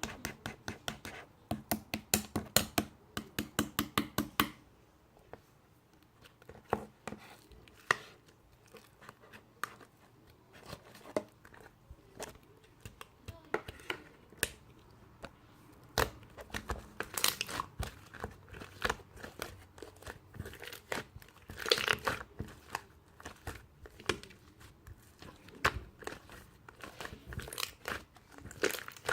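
Hands squishing and stretching slime: a quick run of sticky clicks and pops for the first few seconds, then slower, scattered pops and crackles.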